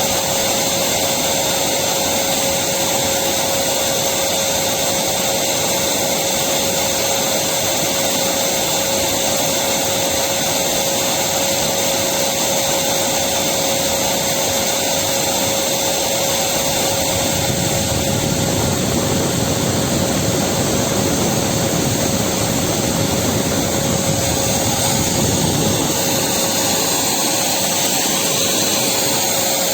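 Electric vacuum cleaner running steadily: a constant whine over a rushing hiss. The lower part of the sound grows fuller for several seconds past the middle.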